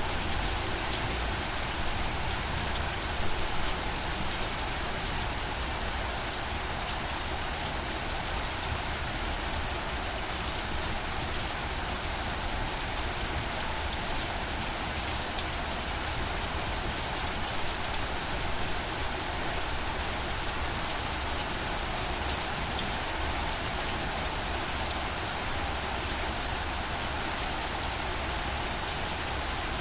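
Steady rain falling on a surface, a dense even hiss of many fine drop patters.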